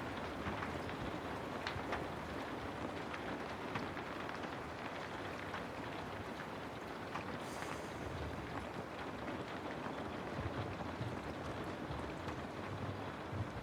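Steady rain: an even hiss with many small ticks of drops landing. There is a short, higher hiss a little past halfway.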